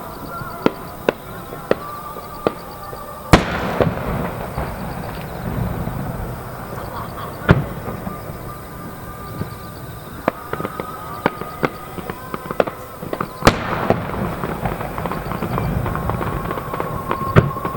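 Aerial fireworks shells bursting: two heavy booms about ten seconds apart, each echoing away, with many smaller pops and crackles in between.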